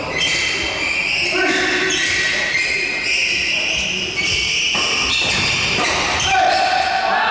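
Badminton rally in a sports hall: players' court shoes squeaking repeatedly in short high-pitched squeals on the court floor, with a few sharp racket strikes on the shuttlecock.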